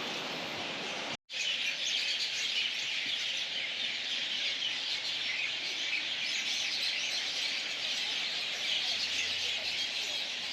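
Many small birds chirping together in a dense, continuous chatter. It starts after a short break about a second in; before that there is only a steady low background noise.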